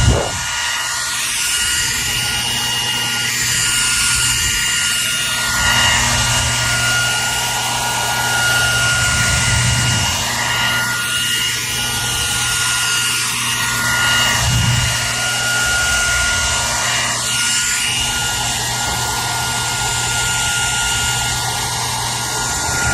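Electric hair dryer running continuously: a steady rush of air with a high, steady whine from the motor and a low hum, swelling and easing slightly every few seconds.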